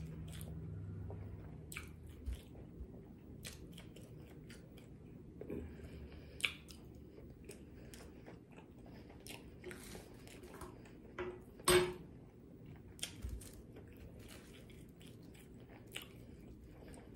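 Close-miked chewing of a breaded boneless buffalo wing: soft wet mouth sounds broken by scattered small clicks, with one louder click about two-thirds of the way through.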